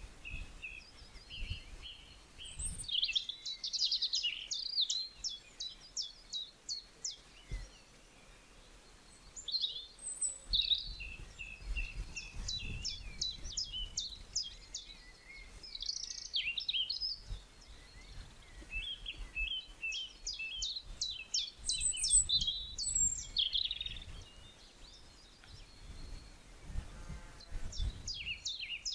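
Songbirds singing: repeated phrases of rapid, high chirps and trills coming every few seconds, over a faint low rumble.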